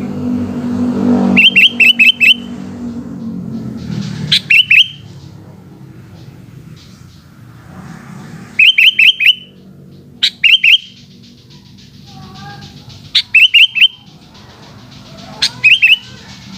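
Sooty-headed bulbul (kutilang) singing in short bursts, each a quick run of three to five bright notes, about six phrases spaced a few seconds apart. Under it runs a low engine-like hum, loudest in the first few seconds.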